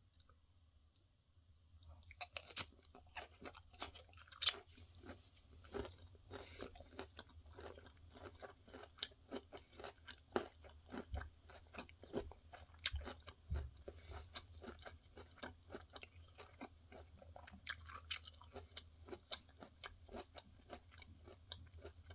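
Close-up chewing of crisp blanched dureup (Japanese angelica tree) shoots: a run of irregular wet crunches. It starts about two seconds in and keeps going.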